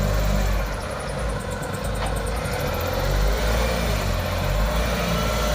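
Engine of a 3.5-ton rough-terrain forklift running steadily, a constant low hum with no change in speed.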